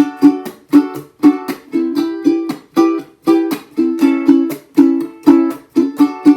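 Ukulele strummed on a D major chord in a down, up, up chunking pattern, the strums cut off abruptly by the heel of the hand for a clipped, stop-start rhythm.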